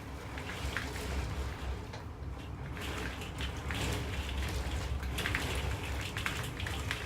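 Typhoon rain beating down, with gusts of wind that swell and ease every second or two over a low rumble.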